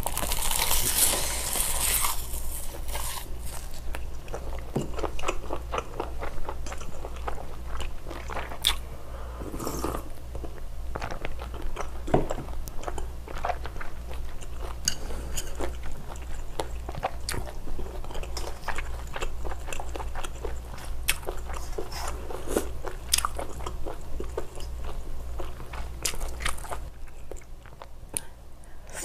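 Close-miked eating: a crisp crunch of roasted seaweed (gim) in the first two seconds as a wrapped bite of spicy stir-fried octopus, gopchang and shrimp is bitten, then steady chewing with many small wet clicks and crackles. A faint low hum runs underneath.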